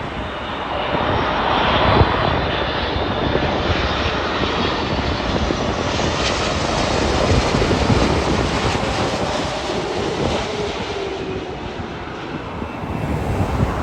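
Jet airliner passing close by, its engine noise swelling over the first couple of seconds, holding, then fading away with a slight drop in pitch.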